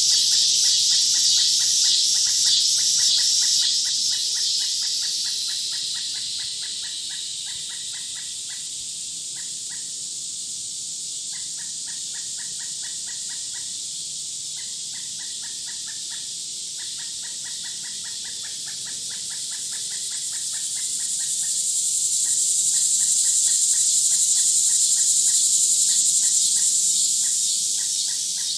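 Outdoor nature soundscape: a loud, high insect drone that fades away about a quarter of the way in and swells back near the end, over runs of rapid chirping pulses from birds or insects.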